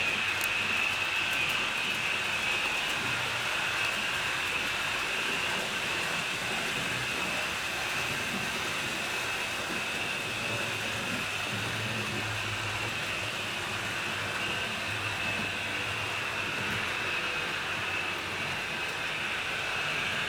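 HO scale model train running on the layout: a steady high motor whine with wheel rumble on the track, continuous and unchanging.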